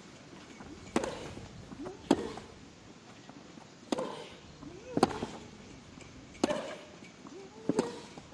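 Tennis rally on a grass court: racquets strike the ball about six times, roughly once every second or so, with a player's short grunt on several of the strokes.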